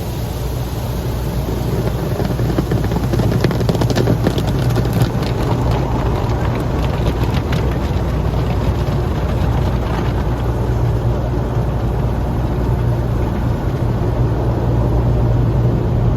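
Automatic car wash machinery heard from inside the car: a steady drone with a low hum, and a spell of rapid tapping on the body a few seconds in.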